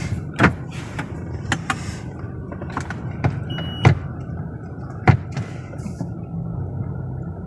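Honda CR-V's 1.5-litre turbocharged four-cylinder engine idling, a steady low hum heard from inside the cabin. Over it come several sharp clicks and knocks as the gear selector is moved from P through N to D, and a short beep about three and a half seconds in.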